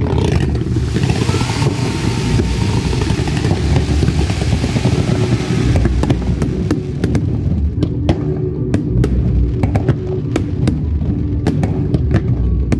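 Fireworks going off: a dense hissing, crackling rush of fountains and low shots for about the first half, then a run of sharp bangs from bursting shells, one or two a second. Music with a heavy low end plays underneath.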